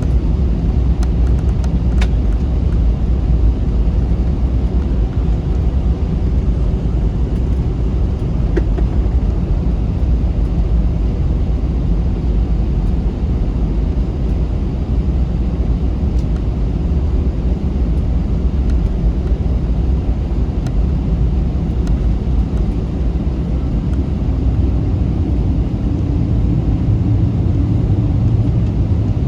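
Airbus A321 jet engines and airframe heard from inside the passenger cabin while taxiing: a steady low rumble, with a deeper hum swelling near the end.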